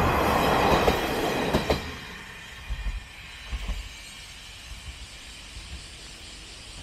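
Single-car diesel railcar rumbling past close by on a steel girder bridge, its wheels clacking over the rail joints, the sound dying away about two seconds in. A few low thumps follow.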